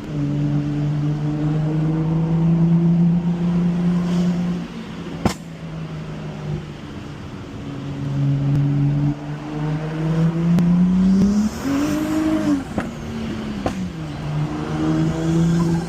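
BMW N55 turbocharged straight-six with a big turbo upgrade, pulling hard in third gear with its note climbing. It lets off sharply about four and a half seconds in with a crack, then pulls again to a peak around twelve seconds, with a high whoosh as it lets off. It climbs once more near the end.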